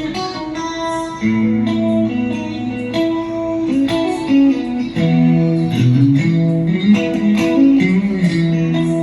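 Ibanez RGA42EX electric guitar played through a Zoom G5n multi-effects unit: a run of single notes and chords, each ringing out for up to a second or so before the next.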